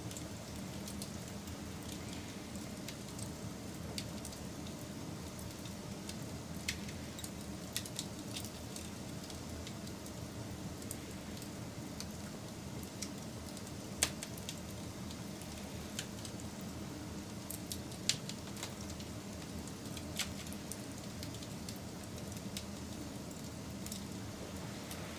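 Wood campfire burning with a steady low rush of flame, broken by scattered sharp crackles and pops, two louder snaps standing out about halfway through.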